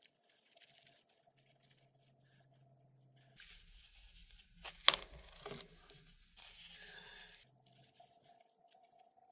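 Hands cleaning a small computer-fan bearing and its parts: soft rustling and scraping, with one sharp click about five seconds in.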